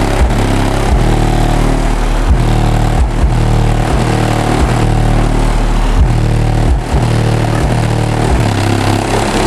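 Car stereo system playing bass-heavy electronic music very loudly, with deep held sub-bass notes that slide between pitches, recorded so loud that it distorts.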